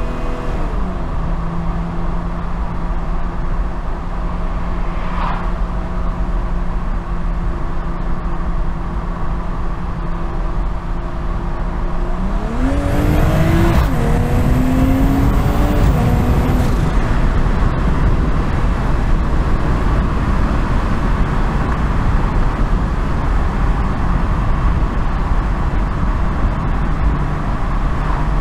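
BMW M240i's 3.0-litre turbocharged inline-six with road noise: the revs drop just after the start and the engine then holds a steady cruising note. About halfway through it accelerates, the pitch climbing for a few seconds with one gear change partway, then settles back under louder road noise.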